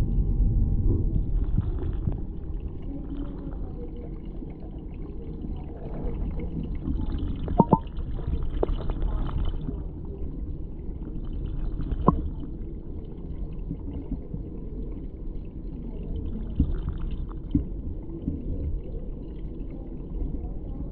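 Muffled, low rumbling and gurgling of water, with a couple of sharp knocks about eight and twelve seconds in.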